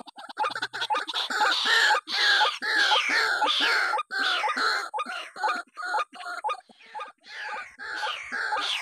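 White-breasted waterhen (ruak-ruak) calling: a fast run of repeated calls, about two to three a second, growing louder about a second in.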